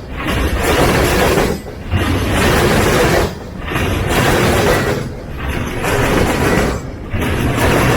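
Freight train cars rolling past close by: a loud rush of wheel and rail noise that swells and dips in a steady rhythm, about once every 1.7 seconds as each car goes by.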